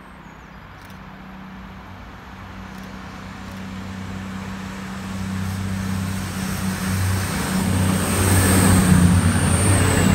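Diesel multiple-unit passenger train approaching and running past the platform: engine drone and rail noise grow steadily louder as it nears. A high whine sounds over it and drops in pitch as the front passes, near the end.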